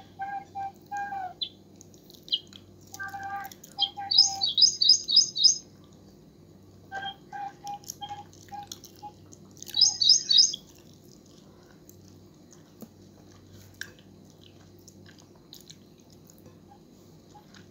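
Bird chirping: runs of repeated short cheeps, with two loud bursts of fast, high twittering about four seconds in and again about ten seconds in. A steady low hum runs underneath.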